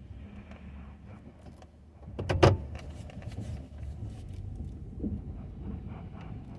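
Ford F-250 plow truck running with a steady low rumble. There is one loud clunk about two and a half seconds in, typical of the plow rig at work.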